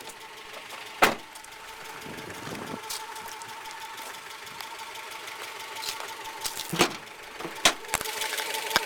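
Honda Prelude's H22A four-cylinder engine idling while misfiring on cylinder 3, the misfire that has set a code and a flashing check engine light. A few sharp clacks sound over the idle, about a second in and three more near the end.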